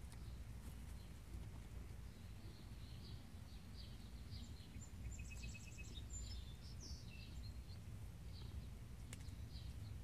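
Faint outdoor ambience: songbirds chirping and giving short rapid trills over a steady low rumble, with a single click about nine seconds in.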